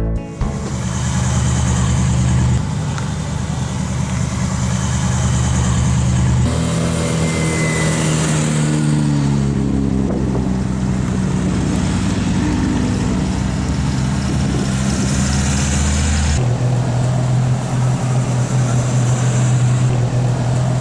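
Car engines running, with the engine note changing suddenly a few times. One engine's pitch falls steadily over a few seconds, as when it comes off the throttle.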